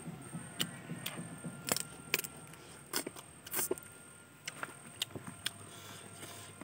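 Close-miked eating sounds of fried chicken eaten by hand: irregular wet clicks, smacks and crunches from chewing meat off the bone and picking at the chicken.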